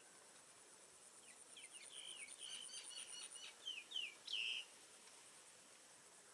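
A bird's quick run of chirping notes that ends in two or three louder downward-sliding notes, over an insect's high, steady pulsing trill that stops about halfway through.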